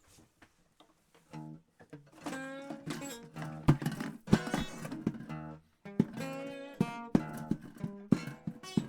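Guitar starts playing about a second and a half in: chords with sharp attacks opening a song, no singing yet.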